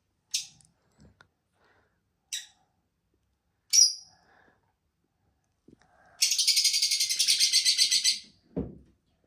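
A small bird chirping: three short, high chirps, then a fast, pulsing trill of about two seconds. A low thump follows near the end.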